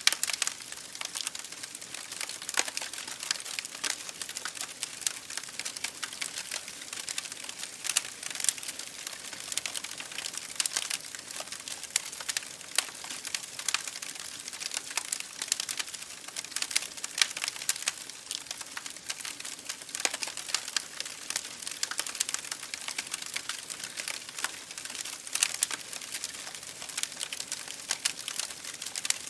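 Campfire crackling with dense, irregular sharp pops over a steady hiss of a babbling creek.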